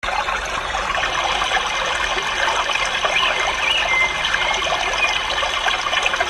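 Many small caged birds chirping and twittering together in a steady dense chatter, with short high chirps rising and falling through it.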